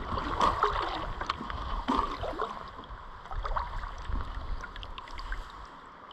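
Kayak paddling on a small river: irregular paddle splashes and water gurgling around the boat.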